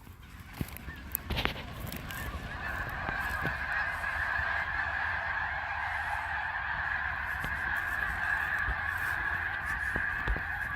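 A large flock of geese honking together, the many overlapping calls blending into a steady chorus that swells over the first few seconds and then holds.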